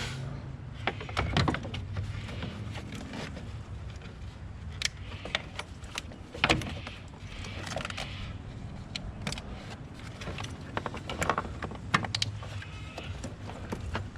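Scattered sharp clicks, knocks and light clinks of tools and car parts being handled, a dozen or so irregular strikes over a low steady hum.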